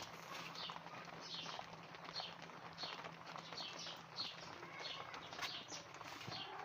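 A bird calling over and over, a short falling chirp repeated about one and a half times a second.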